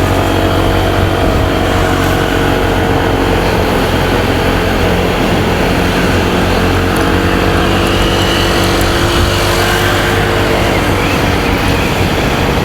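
Motorcycle engine running steadily while riding, its pitch drifting gently up and down with small changes in speed, over continuous road and traffic noise.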